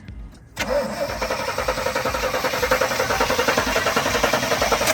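Starter cranking the engine of a 1988 Chevy C1500 pickup. The engine turns over with a rapid, even chugging for about four seconds without catching, then stops suddenly. It turns over freely after sitting for over two years, which is a good sign.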